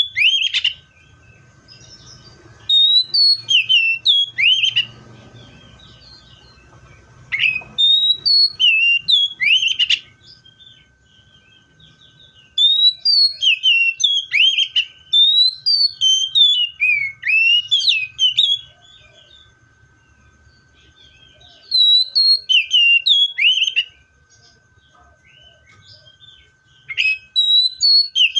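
Seychelles magpie-robin singing loud, clear whistled phrases of short sliding notes. The song comes in five bouts of a few seconds each, with pauses of about three seconds between them.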